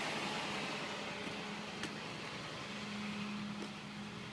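Steady low hum of a running engine, holding one low tone, with a single light click about two seconds in.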